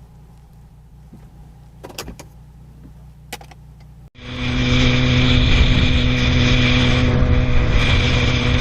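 A quiet low hum with two short clicks, then an abrupt cut about four seconds in to loud, steady car driving noise: engine drone and road noise.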